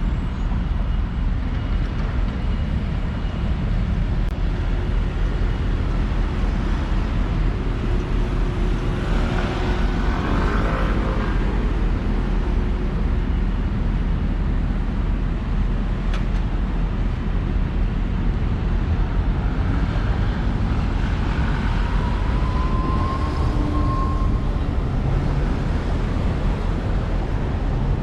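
Road traffic on a city street: a steady rumble of passing vehicles, with one passing louder about ten seconds in.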